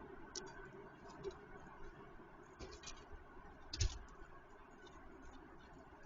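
A few sharp clicks and scratches from birds pecking and scrabbling at a peanut feeder, the loudest a click with a dull knock about four seconds in, over a faint steady background hum.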